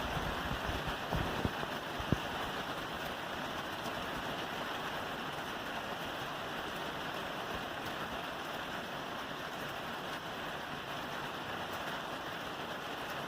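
Steady rain falling on a roof, an even hiss. There are a few short low thuds in the first two seconds, the sharpest about two seconds in.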